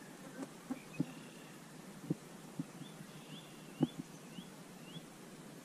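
Faint outdoor hiss with irregular dull thumps, and a bird calling a run of five short rising notes through the middle.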